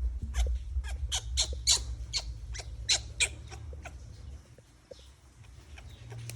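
Small monkey squeaking: a quick run of short, high, falling squeaks, about three a second, that fade after about three seconds, over a low rumble.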